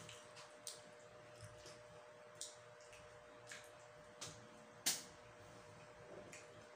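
Close-up eating sounds: scattered soft clicks and mouth smacks of chewing, about one a second, with one sharper click about five seconds in, over a faint steady hum.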